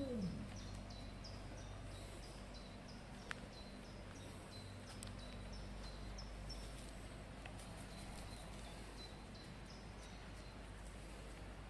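A wolf's howl trails off and drops in pitch in the first half-second. After that, a small bird keeps repeating a short high call two or three times a second over quiet outdoor ambience, fading out near the end.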